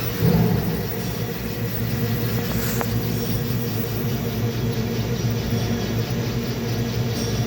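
3D printing machine running: a steady mechanical hum with a low rumble, with a brief louder swell about a third of a second in.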